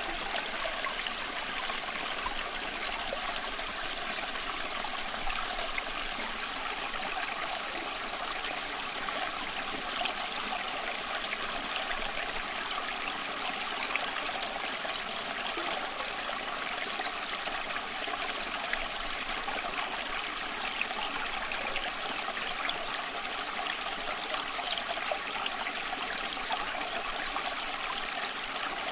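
Small stream flowing steadily over rocks, a continuous trickling and babbling with little change.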